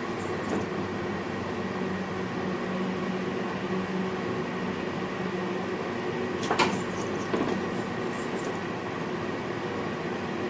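Inside the driver's cab of an NS VIRM double-deck electric train: a steady hum of running gear and cab equipment while the train rolls. A single sharp clack comes about two-thirds of the way in, followed by a few brief high squeals.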